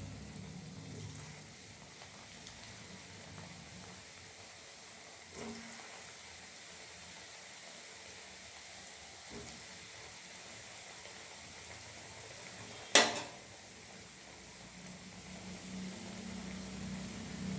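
Faint steady sizzling of cooking on the stove, with one sharp clack about thirteen seconds in, the loudest sound, and a couple of lighter knocks around five and fifteen seconds.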